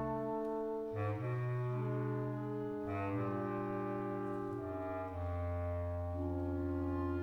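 Clarinet choir, bass and contrabass clarinets included, playing slow sustained chords over a deep bass line. The harmony changes about a second in, again near three seconds and again about five seconds in.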